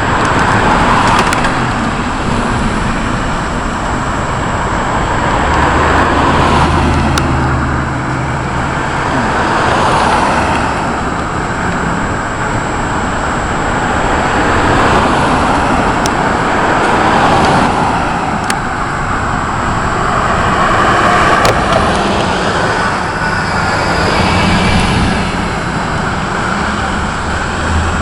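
Rushing noise of a summer thunderstorm's rain and wind, steady but swelling and easing every few seconds.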